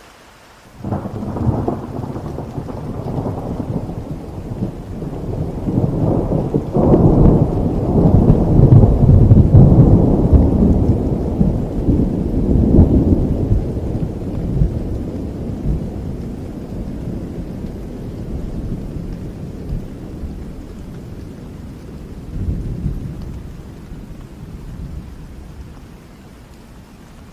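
A long roll of thunder over steady rain. It breaks suddenly about a second in, grows to its loudest around seven to ten seconds with sharper cracks on top of the deep rumble, then rolls away slowly until only the rain is left near the end.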